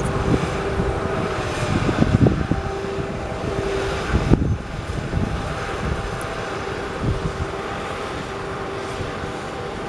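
Heavy construction machinery running: a steady engine drone with a held hum, and a few clunks about two seconds in and again near four and a half seconds.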